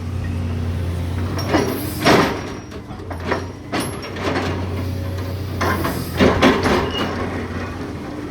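Caterpillar demolition excavator's diesel engine running steadily under load. Several sudden crashes and scrapes of demolition debris are heard, the loudest about two seconds in and around six seconds in.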